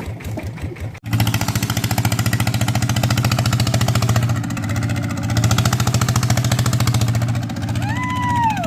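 Walk-behind tractor's single-cylinder diesel engine running hard through a loud aftermarket exhaust, a fast even beat of firing pulses; it cuts in abruptly about a second in after a quieter engine sound. Near the end a brief high tone rises and falls.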